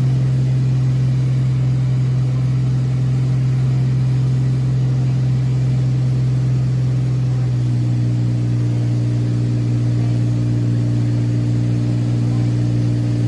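Cessna light aircraft's piston engine and propeller running, a loud, steady low drone; about halfway through a set of higher tones joins in.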